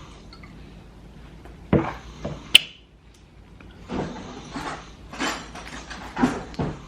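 Household handling noises: a knock, then one sharp click about two and a half seconds in, and a run of rustling and knocking near the end, like a kitchen cupboard or drawer being opened and things taken out.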